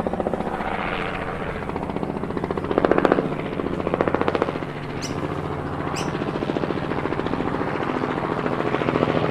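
Small DC motor spinning the rotor of a homemade plastic-bottle toy helicopter: a steady, fast chopping buzz that swells briefly twice, about three and four seconds in.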